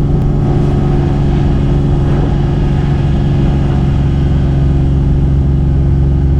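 Motor vehicle engine running at a steady speed while driving, a steady low drone with a constant hum.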